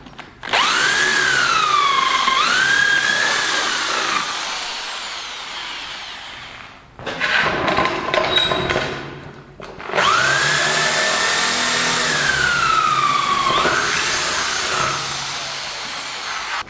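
Handheld electric power tool on metal, running in two long spells, its high motor whine dipping in pitch and recovering as it is loaded. A short stretch of irregular rattling noise comes between the two spells.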